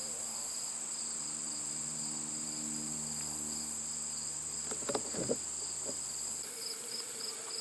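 Steady, high-pitched chorus of late-summer insects, with a few faint brief sounds about five seconds in.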